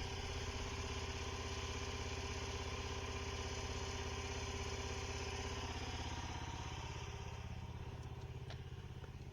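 Gas engine of a RuggedMade 737 log splitter idling steadily while it warms up.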